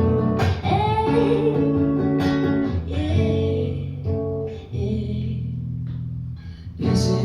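Live acoustic-guitar-backed pop song: guitar chords ring under a sung line, and the music thins out to sustained notes in the middle before building again near the end.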